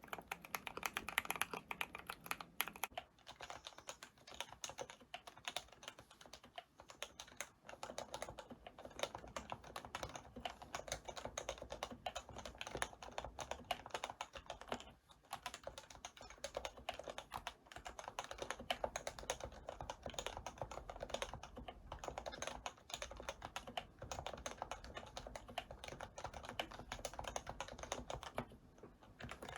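Continuous fast typing on a custom keyboard, a rapid run of keystroke clacks. The typing sounds brighter for the first few seconds, then deeper from about three seconds in.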